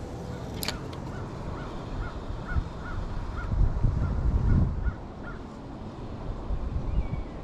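A bird calling over and over, short rising-and-falling notes about three a second, with a low rumble that is loudest about four seconds in.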